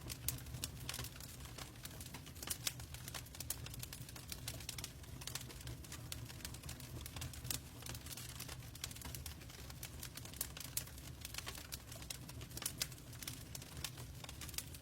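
Wood fire crackling, with irregular sharp pops and snaps over a steady low rumble, blended with the even hiss of rain.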